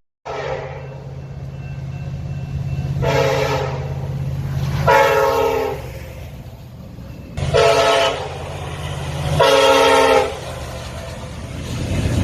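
Diesel locomotive sounding its multi-note air horn five times. The first blast is short and the next four last about a second each, over the steady low rumble of the locomotive's engine.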